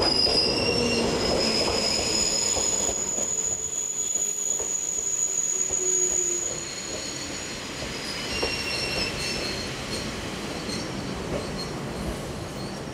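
Two Nagano Electric Railway electric trains, the 1000 series Yukemuri limited express and a 2000 series, rolling slowly through the station: high, steady wheel and brake squeals over the rumble of the running gear, loudest for the first six seconds or so and then easing.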